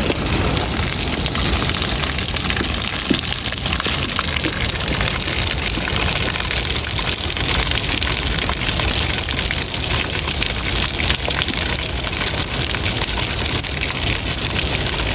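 Steady rain falling, a dense, even hiss with a fine crackle of drops.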